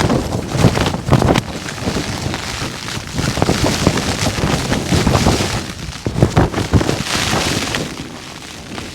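Strong wind buffeting a tent, with low wind rumble on the microphone and irregular sharp flaps and rustles throughout, easing slightly near the end.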